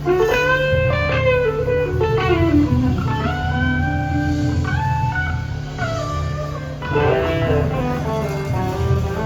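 Live blues-rock band jamming, with a lead electric guitar playing sliding, bending notes over a steady bass line.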